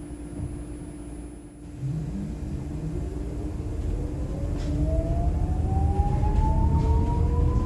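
Electric traction motor of an Eletra-converted Scania K310IB bus accelerating: a whine of several tones rises steadily in pitch from about three seconds in, over a low rumble that grows louder as the bus picks up speed.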